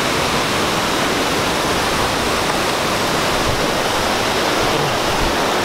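Tegenungan waterfall pouring nearby: a steady, loud, dense rush of falling water, even throughout.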